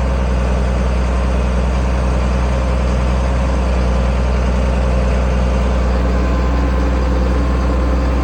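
International 1566 tractor's turbocharged six-cylinder diesel running steadily while pulling a field cultivator in tillage.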